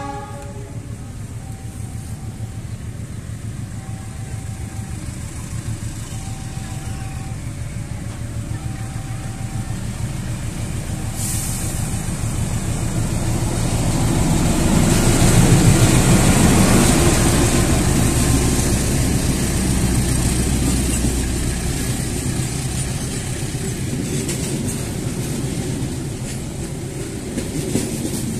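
Diesel-electric locomotive hauling a passenger train approaches and passes close by. The rumble builds to its loudest about halfway through as the locomotive goes past, then carries on as the coaches roll by. Through the first ten seconds, short two-tone level-crossing warning tones repeat about every second and a half.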